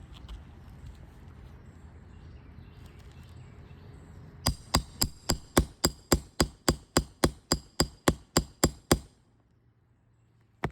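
Roofing hammer striking metal in quick, even blows, about four a second and some seventeen in all. The run starts about four seconds in and stops suddenly.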